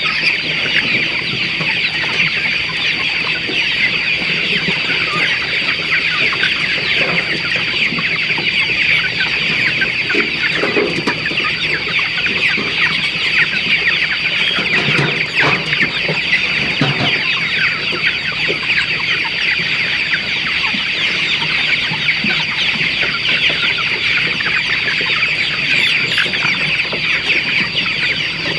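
A large flock of chickens calling all at once: a dense, unbroken chatter of overlapping clucks and peeps, with a few louder, lower calls standing out partway through and a steady high-pitched tone underneath.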